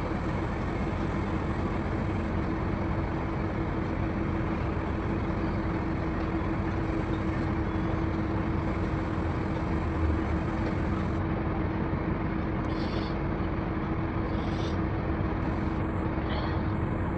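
A steady machine hum with a constant low tone over an even background noise. A few faint, soft, short sounds come in the second half.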